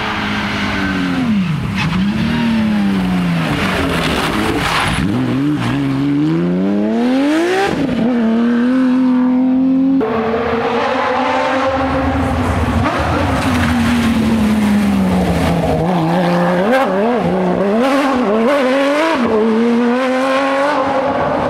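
Porsche 911 rally car's flat-six engine revving up and down through the gears at stage speed. About halfway through it climbs steadily to a high pitch, then drops sharply.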